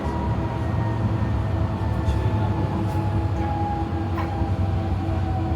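Docklands Light Railway train heard from inside the carriage while running: a steady low rumble with the whine of the traction motors, one whine tone slowly falling in pitch, and a few faint clicks from the wheels.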